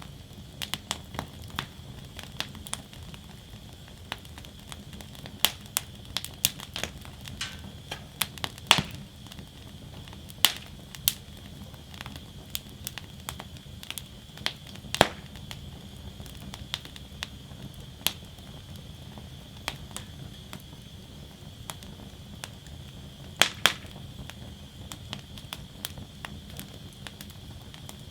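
Wood fire burning in a fire basket, crackling with irregular sharp pops, several a second at times, over a steady low noise of the flames.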